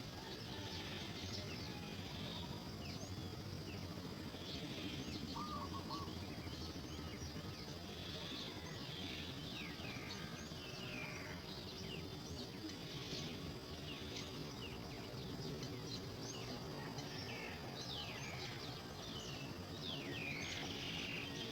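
Birds chirping and twittering in quick, short notes, over a steady high insect drone and a constant background hiss.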